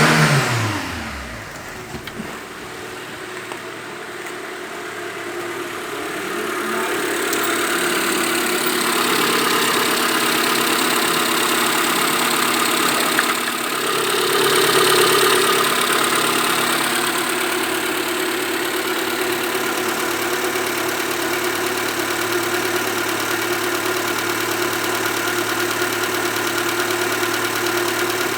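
Renault K4M 1.6-litre sixteen-valve four-cylinder petrol engine falling back from a brief rev at the start, then idling steadily. The sound swells slightly about halfway through.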